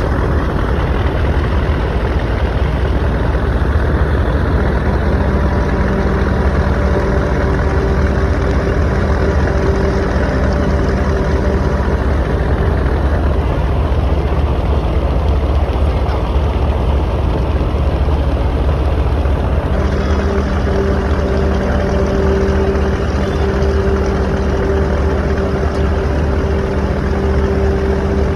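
Engine of a large river passenger launch running with a steady deep rumble and a wash of noise while the vessel manoeuvres to dock. A steady droning hum comes in about five seconds in and again about two-thirds of the way through.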